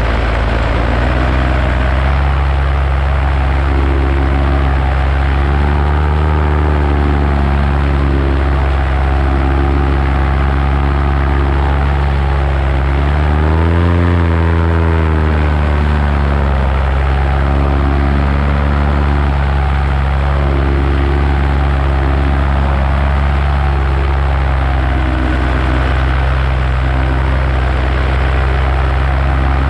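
Paramotor engine and propeller running steadily in flight. About halfway through, the revs rise for a couple of seconds and then drop back.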